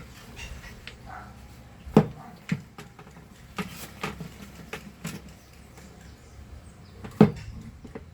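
Scattered clicks and knocks from handling a small handheld vacuum cleaner's plastic parts on a workbench, with two sharper knocks about two seconds in and near the end.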